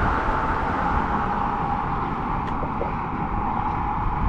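Wind buffeting the action-camera microphone with a steady rush of tyre and road noise while riding an Apollo Go electric scooter, and a faint steady high tone that fades about halfway through.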